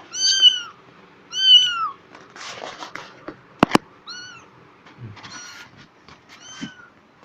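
Black cat meowing repeatedly: high calls that bend down in pitch at the end, two loud ones in the first two seconds, then a shorter one and a faint one later. A single sharp click sounds a little past halfway.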